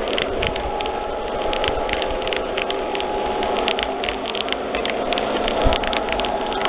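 A 1:32-scale model train of four Southern Pacific diesel units running along the track: a steady hum with a few held tones under a rapid, irregular clicking of wheels on the rails.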